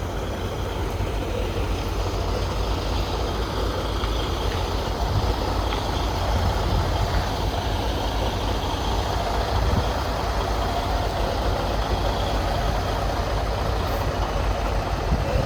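Tractor-trailer truck's diesel engine running as a steady low rumble while the truck is slowly manoeuvred.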